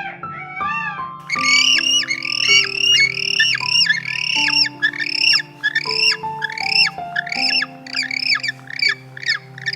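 An animal making a rapid series of short, arching squawk-like calls, about two or three a second, over background music with plucked notes.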